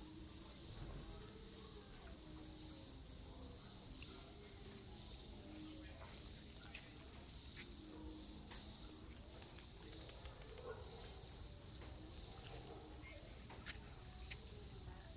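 Insects trilling steadily, a high, rapidly pulsing chorus, with a few faint clicks.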